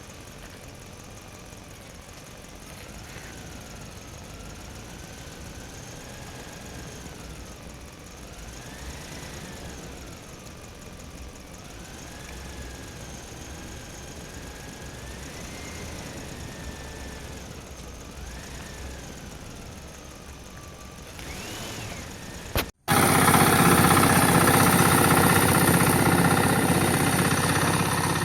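A mini tractor's small motor running, its whine rising and falling in pitch as it speeds up and slows. After a sudden break about 23 s in, a much louder, steady engine-like sound takes over.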